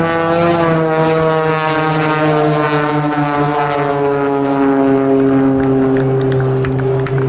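Pitts S-2C aerobatic biplane's propeller engine passing overhead, its pitch slowly falling.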